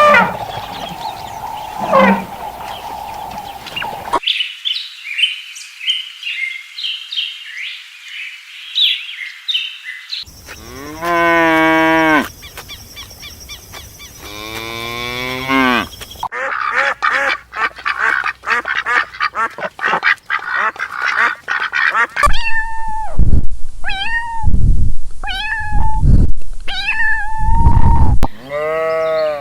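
A run of separate animal-call recordings that change abruptly about every six seconds: high chirping birdsong, then drawn-out calls that slide up and down in pitch, then dense chatter, then a series of loud repeated calls, with duck-like quacking among them.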